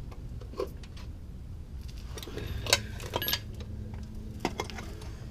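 Metal hand tools clinking and clanking: a single clink, then a quick cluster of louder clanks in the middle, then another clink, over a steady low hum.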